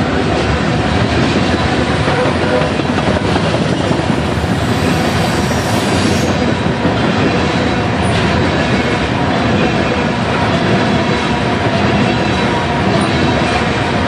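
Freight train's covered hopper cars rolling past close by: a loud, steady rumble and clatter of steel wheels on the rail joints.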